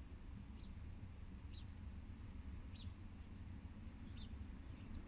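A bird chirping: short, high, falling notes about once a second, over a steady low rumble.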